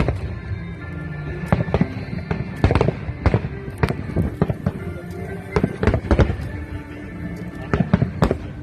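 Fireworks going off: an irregular string of sharp bangs, some coming in quick clusters, with music playing underneath.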